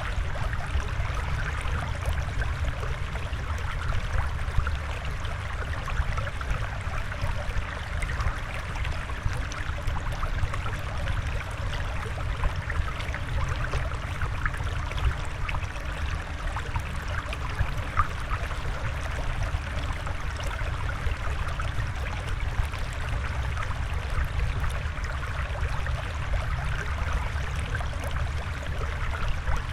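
Steady flowing water: an even, continuous wash flecked with many tiny crackles and trickles, with no audible music.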